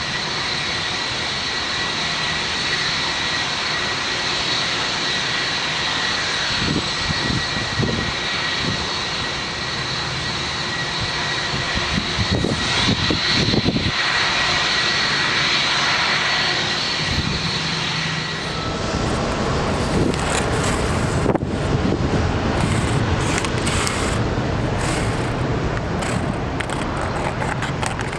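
Jet airliner engines: a steady rushing noise with a high-pitched whine held on two notes, and about two-thirds of the way through the whine stops and a rougher, crackling rush takes over.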